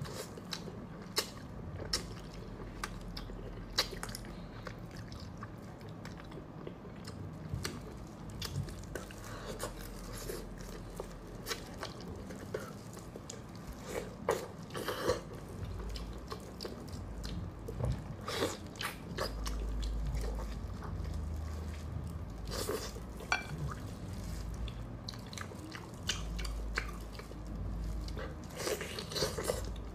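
Close-up chewing and biting of braised meat in sauce, with many short, sharp mouth clicks.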